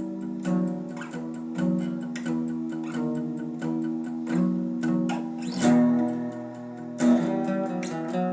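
Acoustic guitar playing an instrumental passage of a song: a run of plucked notes ringing on, with a few louder strummed chords.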